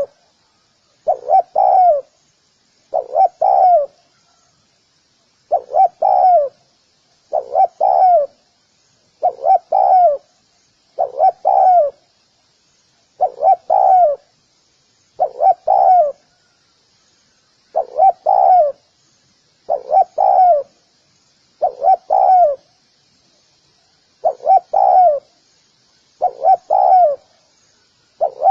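Spotted dove cooing: a short phrase of two or three coos, repeated about every two seconds with a few slightly longer pauses.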